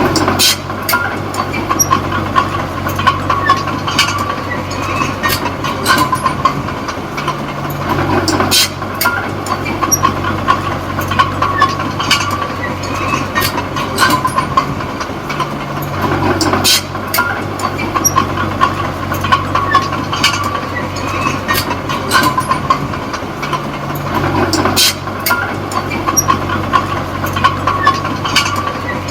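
A Komatsu D20P small crawler bulldozer's diesel engine running under work, with the steel tracks clanking and clicking steadily and a thin steady whine above. The engine note changes about every eight seconds.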